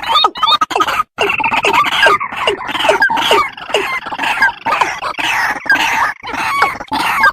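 Recorded lure calls of rails: loud, harsh calls repeated several times a second, many with falling notes, overlapping like a chorus.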